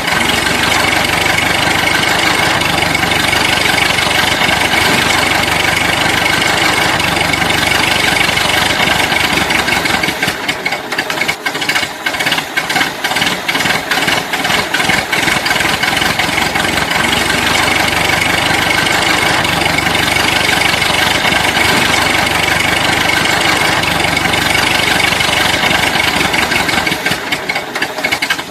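Toy vehicle running with a steady, engine-like motor sound. About ten seconds in it turns choppy and rattling for several seconds, then settles back to steady.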